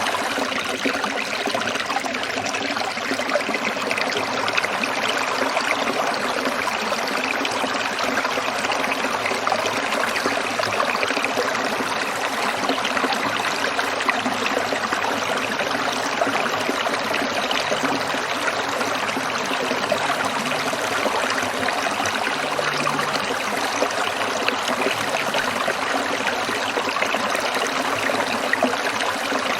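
Shallow stream water trickling and splashing over stones in a steady, unbroken flow.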